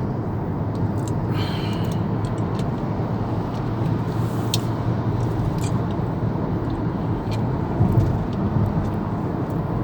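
Steady road and engine noise of a car being driven, heard from inside the cabin: an even low rumble.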